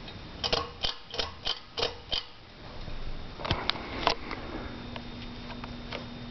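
Hunter Stratford II ceiling fan just switched to medium speed: a quick series of light clicks, about three a second, then a few more, after which a steady low motor hum sets in.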